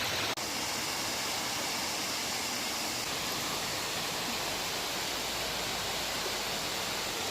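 Waterfall rushing with a steady, even roar of falling water, running high after heavy rain. There is a brief click just after the start.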